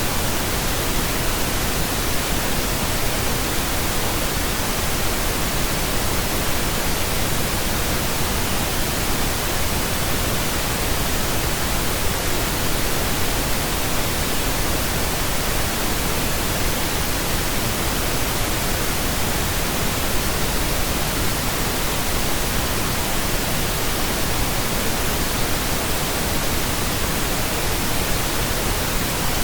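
Steady synthetic pink noise: an even, unchanging hiss spread across the whole range from deep rumble to high hiss.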